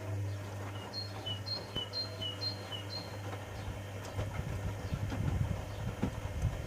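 Privileg Sensation 9245 washing machine running: a steady motor hum, with irregular low thuds from the drum growing from about four seconds in.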